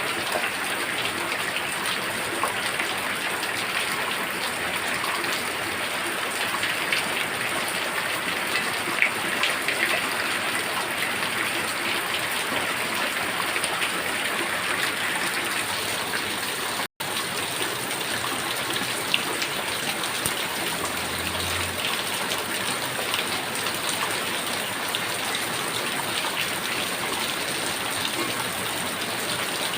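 Heavy rain falling steadily, a dense hiss of rain with individual drops ticking through it. A split-second dropout to silence just past halfway breaks it briefly.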